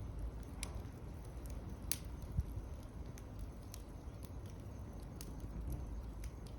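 Campfire crackling in a fire pit: irregular sharp pops and snaps over a low steady rumble.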